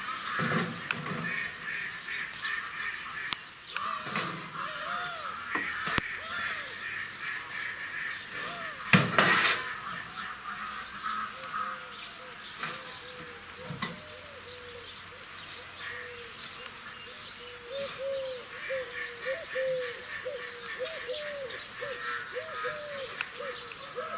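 Birds calling over and over, with short rising-and-falling calls that come thick and fast in the last few seconds. A single loud knock about nine seconds in.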